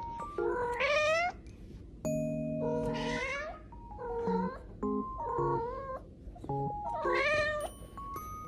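A domestic cat meowing about five times, each meow long and drawn out with a rise and fall in pitch, over light background music of short plucked notes.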